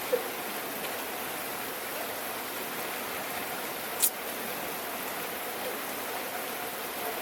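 Steady rain falling, a dense even hiss, with one sharp close drip about four seconds in and a faint plink just after the start.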